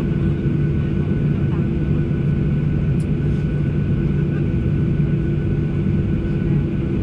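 Steady cabin drone of a Boeing 737-800's engines and airflow, heard from inside the passenger cabin, with a light click about three seconds in.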